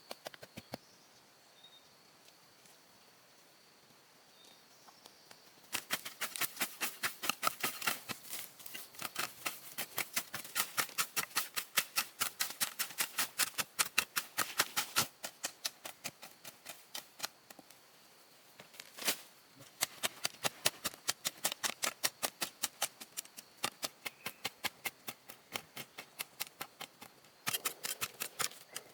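Rapid series of sharp knocks, several a second, starting about six seconds in, pausing briefly past the middle, then running on again.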